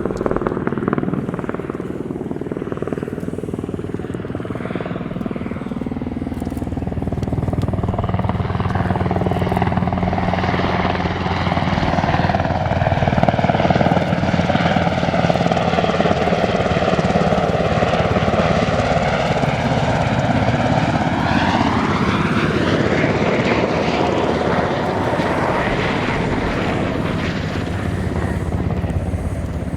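SH-60K Seahawk helicopter's rotors and twin turboshaft engines running steadily. It grows louder to a peak about 13 seconds in. Between about 10 and 24 seconds a hollow sweeping tone falls and rises again as the helicopter moves.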